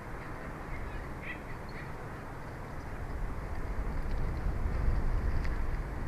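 Wind on the microphone: a steady rush with low rumbling gusts that build from about three seconds in, and a few short, high bird chirps about a second in.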